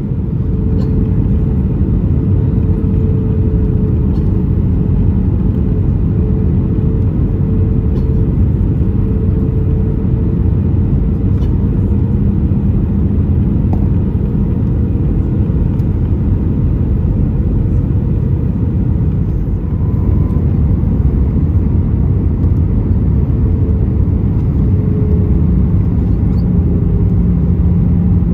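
Steady cabin noise inside an Airbus A320 during descent: a low rush of airflow and engine drone with a steady hum that wavers slightly in pitch. The sound dips briefly about two-thirds of the way through and is a little louder afterwards.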